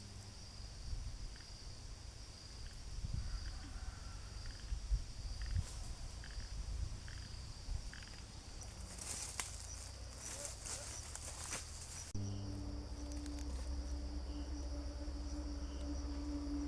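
Insects chirring steadily in the background, with rustling of plants or handling about halfway through. From about two-thirds of the way in, a steady low hum joins.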